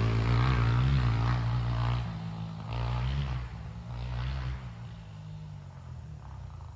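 Honda CRF125F dirt bike's single-cylinder four-stroke engine revving up and down under throttle, then fading with two last surges about three and four seconds in as the bike rides away.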